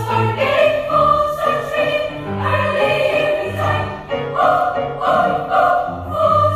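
Children's choir singing in parts, with held chords that move from note to note.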